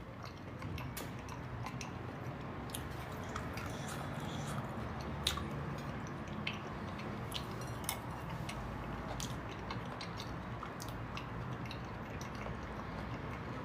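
Close-miked chewing of soft food, with many small, irregular wet mouth clicks over a low steady background hum.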